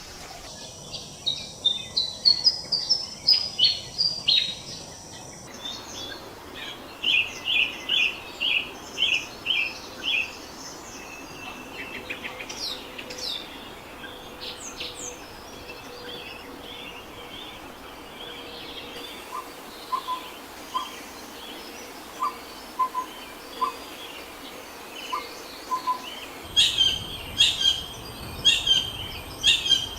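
Birds singing and calling in short repeated chirps and note series, a string of separate recordings cut together, with abrupt changes about 5 and 26 seconds in.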